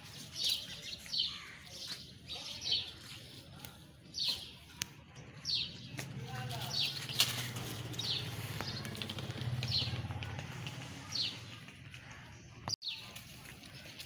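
Small birds chirping: about a dozen short, high, falling chirps, irregularly spaced half a second to a second or more apart, over a low steady hum.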